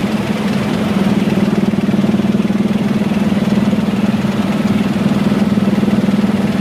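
Helicopter rotor and engine running steadily, with a fast, even pulsing.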